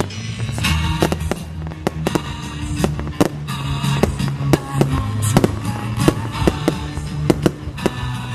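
Fireworks going off in a quick, uneven string of sharp bangs, roughly two a second, over music with steady bass notes.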